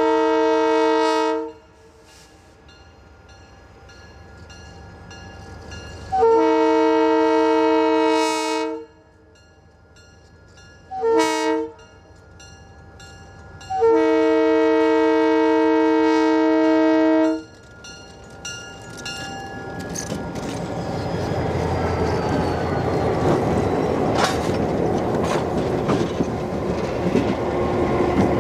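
Diesel locomotive's multi-chime air horn sounding the grade-crossing signal, long, long, short, long. Then the rumble and rail clatter of the train grow steadily louder as it approaches and passes.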